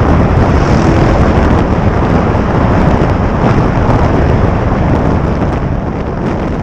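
Loud, steady wind buffeting on the microphone of a motorcycle riding at speed: a heavy rumbling rush with no clear engine note.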